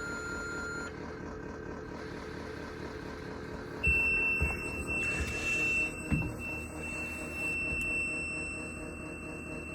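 School bus dashboard warning buzzer with the ignition switched on for a cold start: a steady high beep comes on about four seconds in and holds, with a few low thumps around it.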